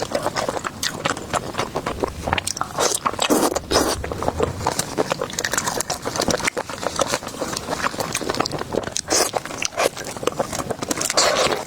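Close-miked eating: continuous chewing and biting, with many short wet clicks and smacks from the mouth and food.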